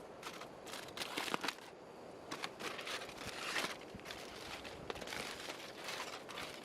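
Aluminium foil crinkling and crackling in irregular bursts as a foil-wrapped toast packet is handled and opened to check it.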